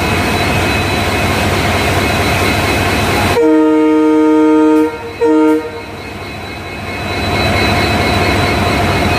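A train running steadily, then a locomotive horn sounding one long blast of about a second and a half and one short blast. The horn is a steady chord of several tones.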